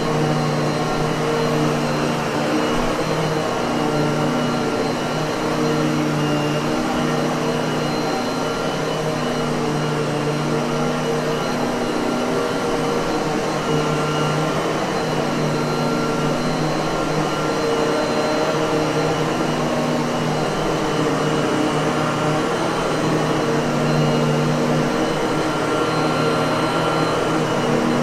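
Miele vacuum cleaner running steadily: a constant motor hum and rush of air, with a few held whining tones that swell and fade a little.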